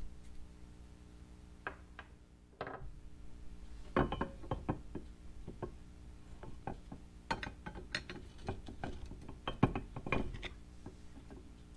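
Irregular metallic clicks, knocks and clatter from the parts of a vintage hand meat grinder being handled, with a few light clicks at first and then two busier runs of knocking.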